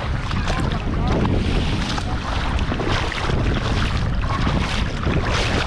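Wind buffeting the microphone in a steady low rumble over the wash of surf breaking on the shore.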